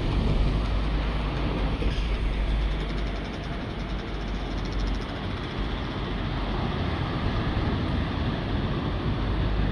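Steady rushing of sea surf on a beach, with wind rumbling on the microphone.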